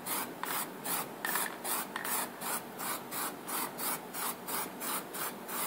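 Rhythmic rubbing strokes, about four a second, steady and even.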